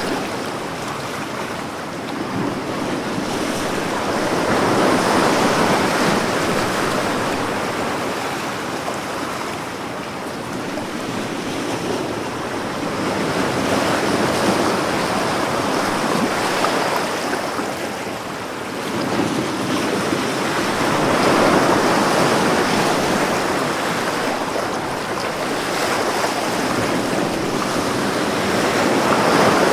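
Ocean surf: waves breaking and washing up the shore, the rush of water swelling and fading in slow surges several seconds apart.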